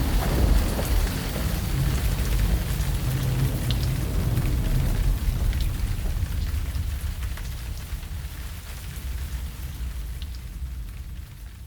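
Steady rain-like patter with scattered drop sounds over a low rumble, slowly fading out toward the end.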